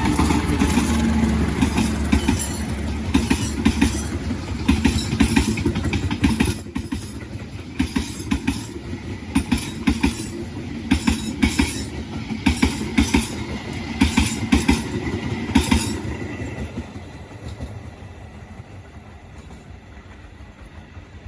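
A train passing close by: a heavy low rumble at first, then wheels clacking over rail joints in a steady rhythm for about ten seconds before the sound fades away.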